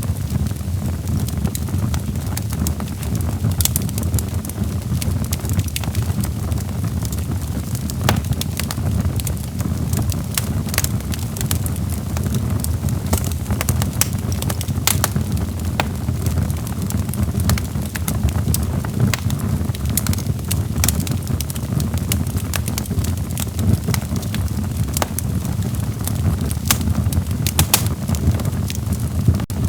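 Wood fire in a fireplace crackling: a steady low rumble of burning logs with frequent, irregular sharp pops and snaps.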